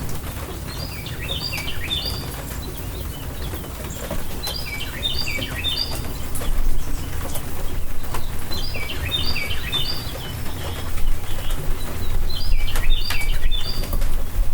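A songbird repeats a short phrase of quick falling notes four times, about every four seconds, over rain: a steady low rumble with scattered drip-like ticks.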